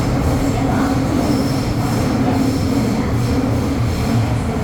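MTR M-train running between stations, heard from inside the carriage: a steady rumble of wheels on rail and traction motors, with a faint high tone that comes and goes.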